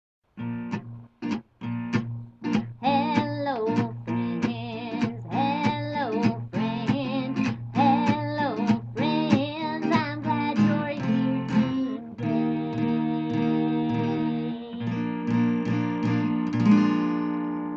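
Intro music: an acoustic guitar strumming chords, with a wavering melody over it for the first dozen seconds, then held chords ending on a last strummed chord left to ring out.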